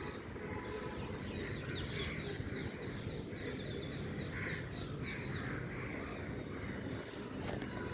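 Birds chirping: a quick run of short, high chirps with softer calls between them, over a steady low rumble.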